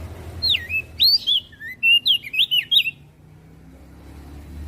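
Crested white-eye (opior jambul) singing: a quick run of whistled notes, each swooping down from high to lower pitch, with thin high chirps above them. The song stops about three seconds in, leaving a low background rumble.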